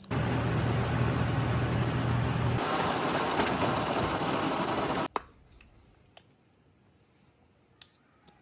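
A motor running steadily with a low hum, growing hissier about halfway, then stopping abruptly about five seconds in; a few faint clicks follow.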